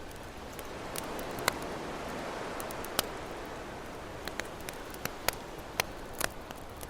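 Campfire crackling, with scattered sharp pops, several close together near the end, over the steady wash of ocean waves.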